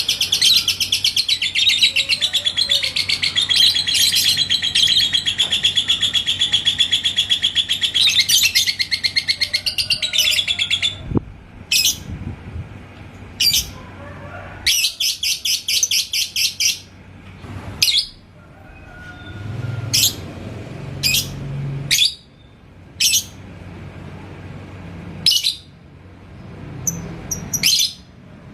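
Lovebird singing its long, rapid ngekek chatter for about eleven seconds, then breaking off into short separate chirps and brief bursts of chatter.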